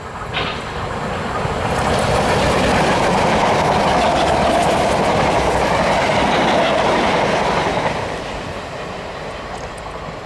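A First Capital Connect electric multiple unit passes through the station at speed without stopping, its wheels clattering over the rail joints. The sound builds over the first couple of seconds, stays loud for about six seconds as the carriages go by, and dies away as the train leaves.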